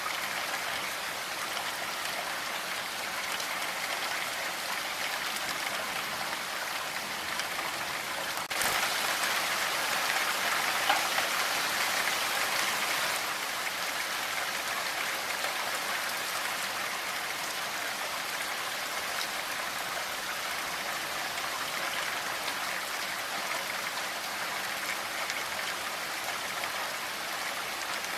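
Steady rain falling, an even hiss of drops; about a third of the way in it suddenly turns louder for a few seconds, then settles back.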